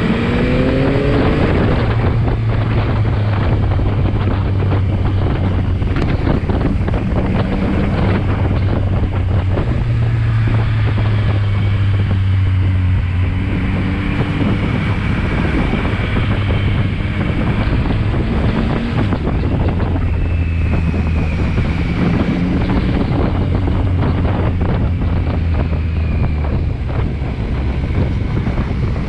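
Motorcycle engine under way with heavy wind noise over the microphone. Its note climbs in the first second or so as the bike accelerates, then runs at a fairly steady pitch, rising and dropping a little with the bends.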